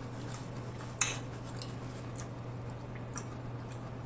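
Close-up eating of crunchy hard-shell tacos: a few sharp crackles and clicks of chewing and handling, the loudest about a second in.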